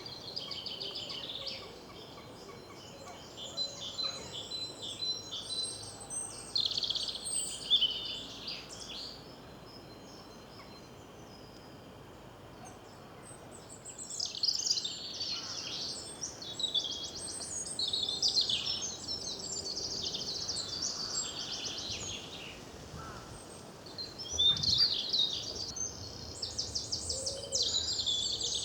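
Small songbirds singing: spells of high, fast trilling phrases of rapidly repeated notes, with a quiet pause of a few seconds in the middle.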